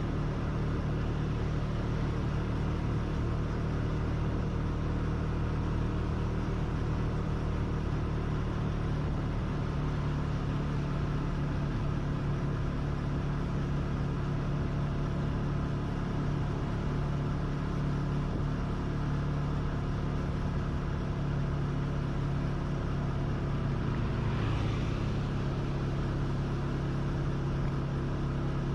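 Motorcycle engine running steadily while riding, with road and wind noise. A brief higher-pitched sound rises over it about 24 seconds in.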